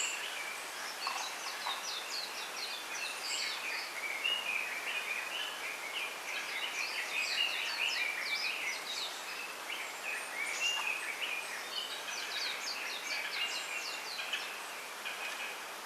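Small wild birds chirping and twittering in quick runs of short, high notes that come in clusters every few seconds, over a steady soft hiss.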